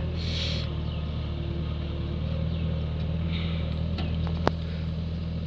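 Sonalika diesel tractor engine running steadily, with a sharp click about four and a half seconds in.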